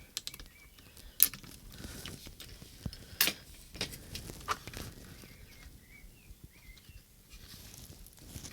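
Sharp, irregular clicks and taps of small plastic transmitter parts and connectors being handled during disassembly, most of them in the first half. A few faint high chirps sound in the background around the middle.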